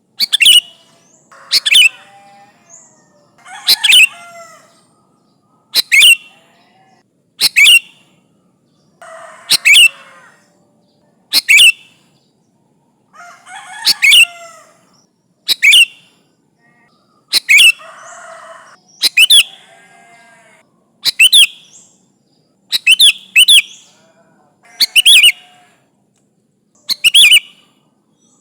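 Sooty-headed bulbul (kutilang) calling over and over in full song, a loud sharp call about every one and a half to two seconds, several followed by a softer, lower chattering warble. This is the kind of challenge call used as a lure to draw rival bulbuls.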